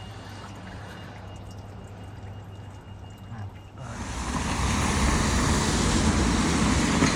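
Quiet street background for about four seconds, then an abrupt change to a loud, steady wash of heavy rain and road traffic.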